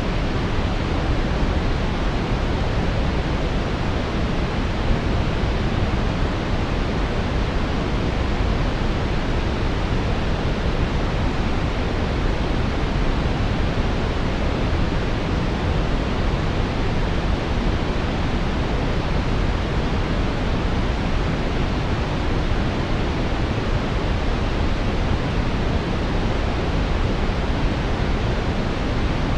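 Steady synthetic brown noise: a smooth, deep hiss, strongest in the low end and falling off toward the treble, with no changes or events.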